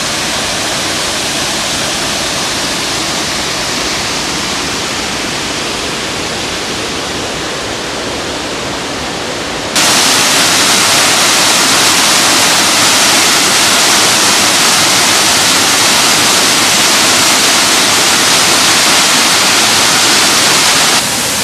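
A waterfall's steady rush of falling water. About ten seconds in, it jumps suddenly louder and hissier, then drops back slightly just before the end.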